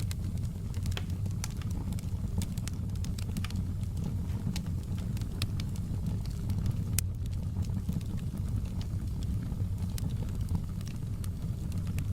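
Wood fire crackling, with irregular sharp pops and snaps scattered throughout, over a steady low rumble.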